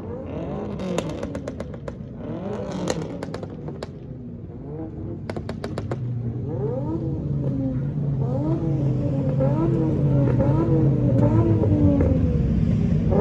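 Car engines at a car meet, with one running steadily and quick rev blips rising and falling about twice a second, growing louder toward the end. A few sharp clicks come in the first few seconds.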